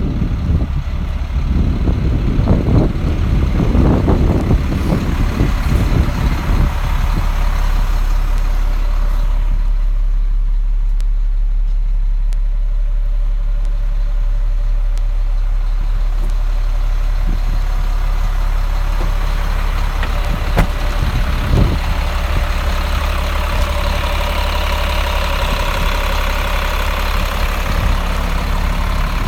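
2007 Freightliner M2 106 truck's diesel engine idling steadily, with wind buffeting the microphone for the first several seconds.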